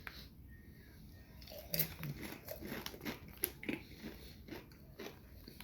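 Close-up crunching and chewing of Doritos Tangy Ranch tortilla chips: a run of sharp, irregular crunches beginning about a second and a half in.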